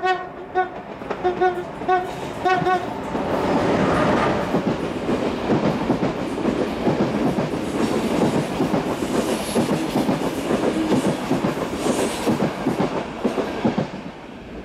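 ADtranz DE2000 diesel-electric locomotive sounding its horn in a quick series of about six short toots. It then hauls its passenger coaches past close by: engine running and wheels clattering over the rails, fading near the end.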